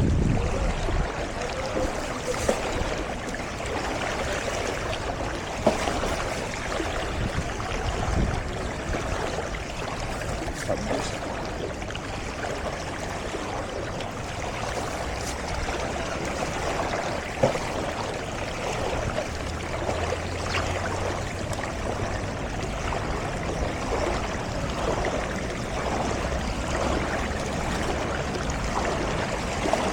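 Steady rushing and sloshing of floodwater, with a few short knocks and a faint low hum joining about two-thirds of the way in.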